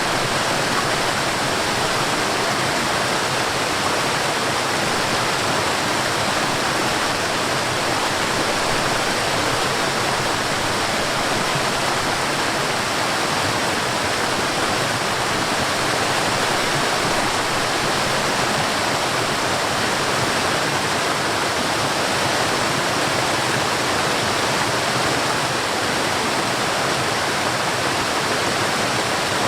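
Forest waterfall: water falling and rushing in a steady, unbroken roar of noise that doesn't change.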